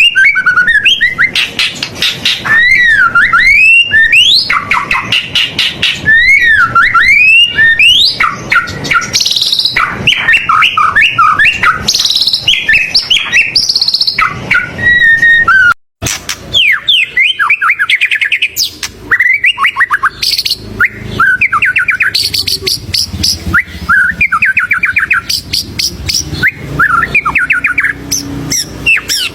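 White-rumped shama (murai batu) singing loudly and without pause: a rich, varied song of swooping whistles, quick trills and rapid repeated notes. It breaks off for a split second about halfway, then carries on.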